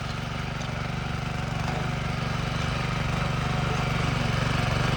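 A small engine running steadily with a rapid, even beat, growing gradually louder.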